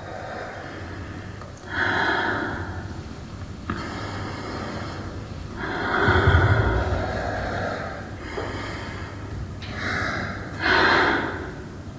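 A person's loud breaths and gasps, a series of drawn-out breathy swells about every two seconds.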